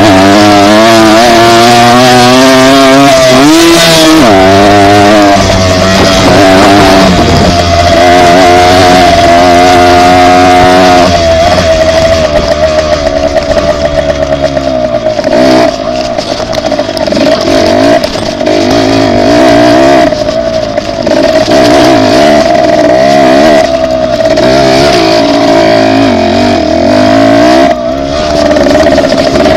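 Dirt bike engine running loud while being ridden, its pitch rising and falling as the throttle is opened and closed.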